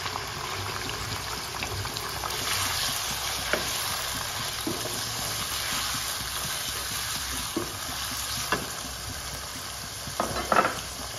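Raw chicken pieces sizzling in hot ghee, stirred with a wooden spatula that knocks and scrapes against the pan now and then, with a louder clatter near the end.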